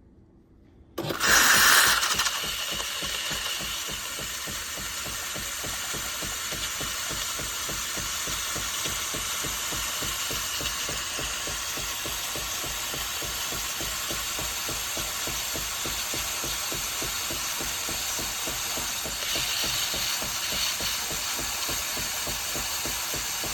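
Philips 3200 Series fully automatic coffee machine starting up abruptly about a second in, with a brief loud burst, then running with a steady mechanical whir and fine rapid pulsing, as during grinding and brewing.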